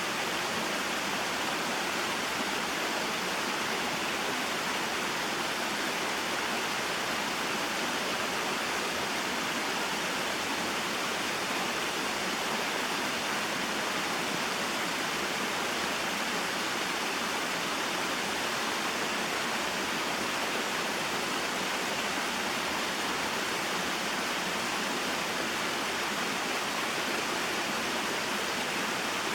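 Small mountain waterfall and stream: water pouring and rushing steadily, with no change in its sound.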